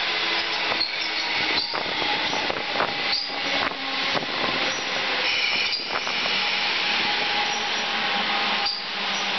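Electric suburban train running past the platform at close range: a steady rush of wheel-on-rail noise with faint motor tones and a few brief high wheel squeals.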